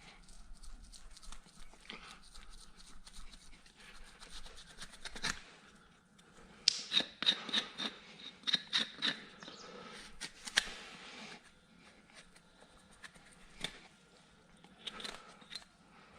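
Farrier's hand tools working on a horse's hoof: irregular scraping and cutting at the horn, with a quick run of sharp clicks in the middle.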